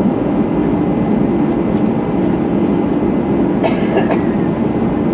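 Steady low rumble inside the cabin of an Airbus A320-211 on the ground before takeoff, its CFM56 engines running and the aircraft rolling. A short sharp noise cuts through about three and a half seconds in.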